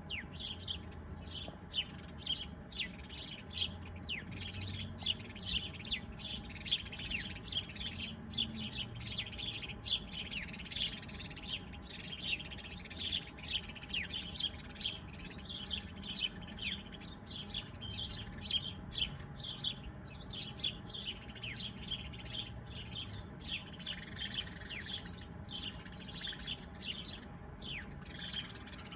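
Small birds chirping and tweeting continuously, a dense chorus of short, quick, high notes, many of them sweeping downward.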